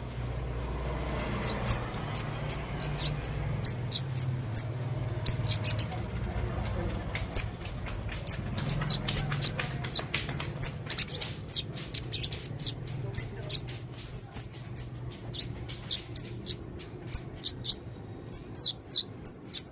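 Male blue-crowned hanging parrot (serindit) calling: many short, sharp, high-pitched chirps and squeaky notes in quick runs. A low steady hum lies underneath.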